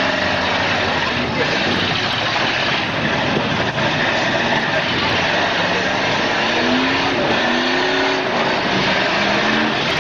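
Several demolition derby cars' engines revving hard together in a steady loud din. Engine pitches climb and drop repeatedly, most clearly in the second half.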